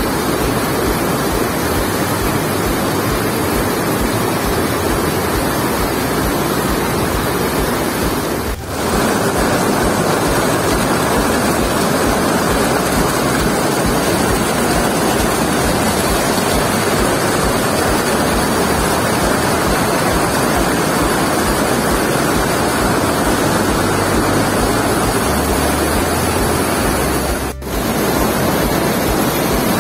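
Waterfall in full spate: a loud, steady rush of heavy falling water, broken by two brief dips.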